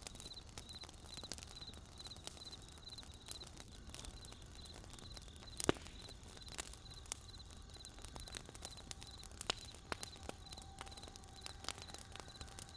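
Wood campfire crackling, with irregular sharp pops and snaps, the loudest about halfway through. A high, evenly repeated chirping runs behind it in the first half, and a faint steady tone comes in during the second half.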